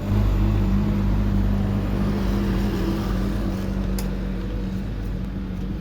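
Yamaha F1ZR two-stroke motorcycle engine running steadily at low revs through an aftermarket KDX exhaust, an even unchanging tone. A short click about four seconds in.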